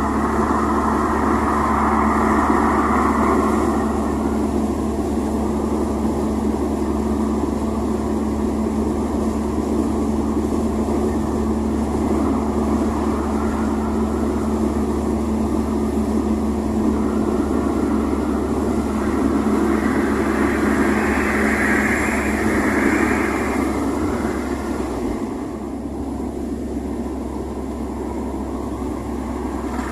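VW Voyage's AP 1.6 inline four-cylinder engine running steadily, with a constant drone, a little quieter from about 25 seconds in.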